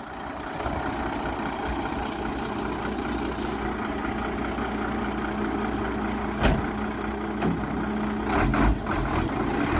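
The 8.3-litre Cummins diesel in a 1995 Ford L8000 truck runs steadily. There is one sharp clunk about six and a half seconds in, and the engine note changes near the end.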